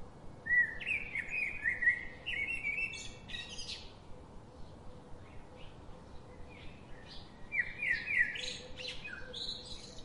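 A songbird singing two phrases of quick, descending chirping notes, the first about half a second in and lasting some three seconds, the second about seven and a half seconds in.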